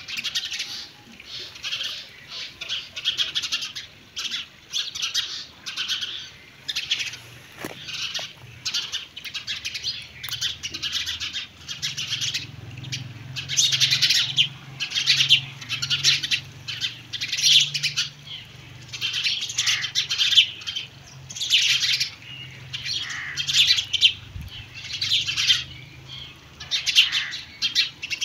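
Small birds chirping busily in short repeated bursts, roughly one a second, with a faint low steady hum coming in about seven seconds in.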